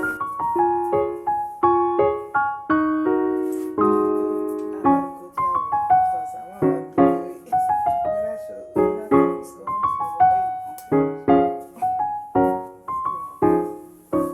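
Background piano music: a gentle melody over broken chords, each note struck and fading away in a steady rhythm.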